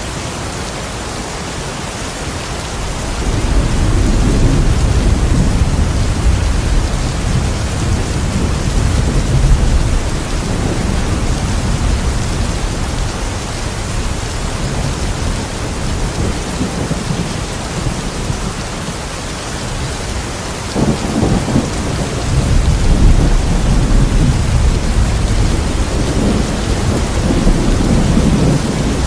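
Steady heavy rain with rolling thunder: one long low rumble builds about three seconds in and fades over several seconds, and a second one breaks in suddenly about two-thirds of the way through and rolls on.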